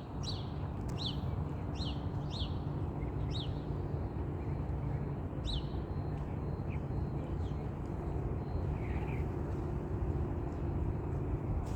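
Steady low rumble of a distant jet airliner's engines, with a small bird chirping over it: short, high, downward-sliding chirps, most of them in the first half.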